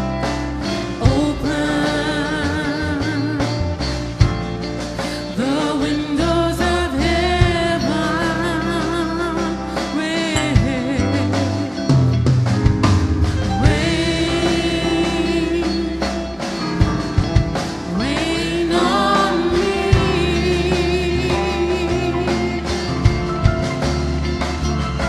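Gospel song: a woman's voice sings long notes with vibrato over a band with bass and drums.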